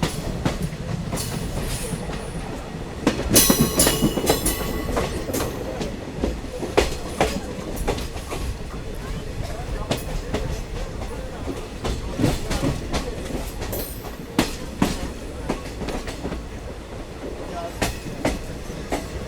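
Diesel multiple unit train running along the track, with a steady rumble and recurring clickety-clack of the wheels over rail joints. A brief high-pitched sound rings out about three seconds in.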